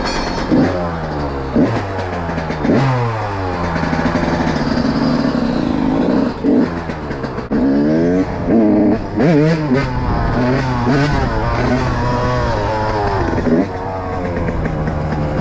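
Yamaha YZ125 125cc two-stroke single-cylinder dirt bike engine revving hard, its pitch climbing and falling back again and again, with quick blips near the middle.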